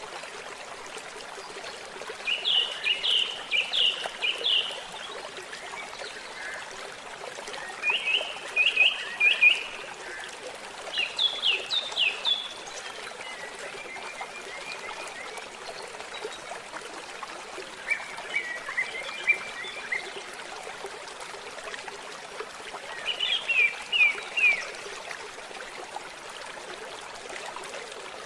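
Water trickling and gurgling steadily in a small stream, with a songbird giving short phrases of quick, rapidly repeated chirps about every few seconds.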